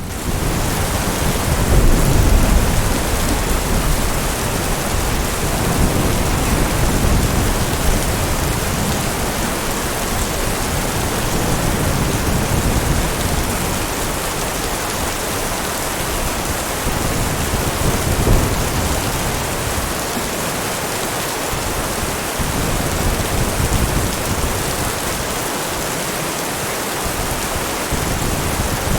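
Heavy rain falling steadily, with low rolls of thunder rumbling under it. The strongest comes about two seconds in, with weaker ones around six and eighteen seconds.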